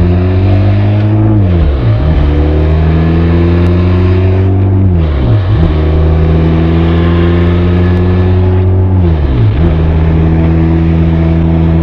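Benelli TRK 502 motorcycle's parallel-twin engine and exhaust pulling under acceleration. The engine note climbs and is cut short by an upshift three times, each dropping the revs before it climbs again.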